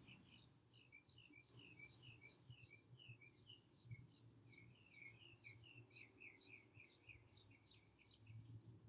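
Faint bird song: a steady run of short, falling chirps, about three a second, over a low background rumble.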